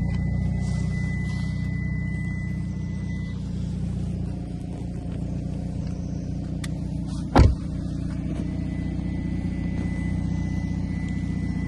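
Hyundai i30 N's turbocharged 2.0-litre four-cylinder engine idling steadily. There is a single loud thump about seven seconds in.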